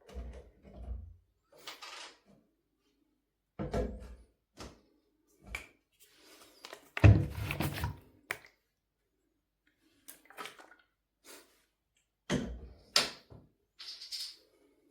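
A string of irregular knocks, thunks and clicks with silent gaps between them, the loudest a heavy thunk about seven seconds in.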